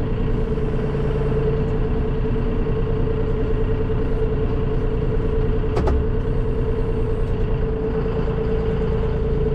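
Farm tractor engine running steadily under a constant whine, with a single sharp knock about six seconds in.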